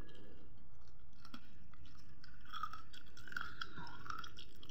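A person chewing a mouthful of fried battered cempedak, with small mouth clicks.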